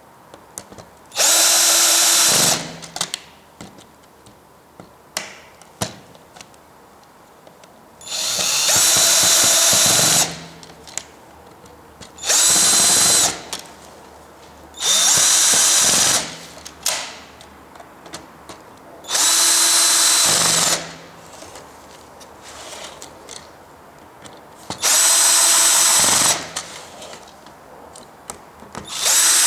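Cordless drill-driver running in short bursts of one to two seconds, seven times, each burst a steady whine. Small clicks and taps between the bursts.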